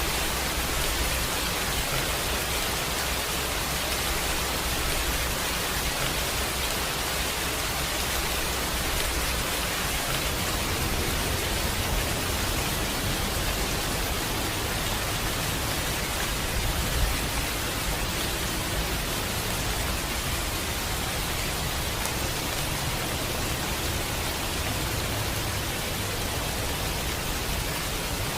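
Steady heavy rain, an even hiss with a low rumble beneath it and a brief knock about 17 seconds in.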